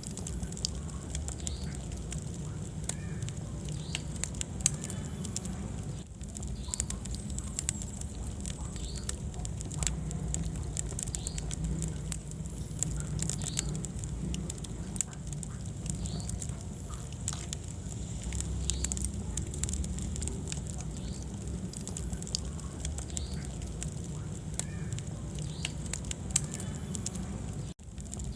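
Wood fire burning in a fireplace: a steady low rumble of flames with scattered crackles and pops throughout. The sound cuts out for an instant near the end.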